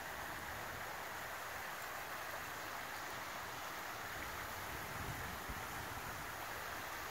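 Creek water flowing over its bed: a steady, even rush, with a faint low thump about five seconds in.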